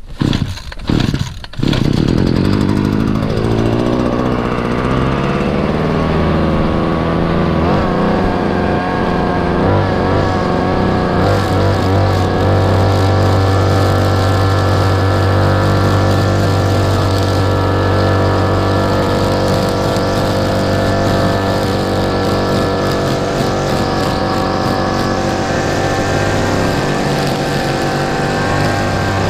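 Exmark mower engine starting: a few sharp knocks, then about two seconds in the engine catches, rises in pitch as it speeds up, and settles into a steady run.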